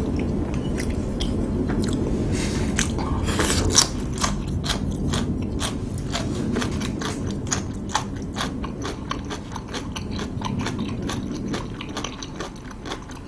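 Close-miked chewing of noodles and dumplings, with many small clicks of the mouth, over the low steady rumble of an airplane passing overhead that slowly fades toward the end.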